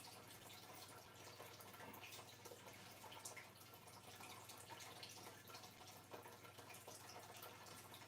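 Near silence: room tone with a faint steady low hum and scattered faint small clicks.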